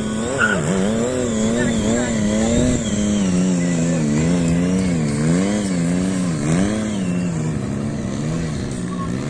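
Motorcycle engine running, its revs rising and falling over and over, about once a second.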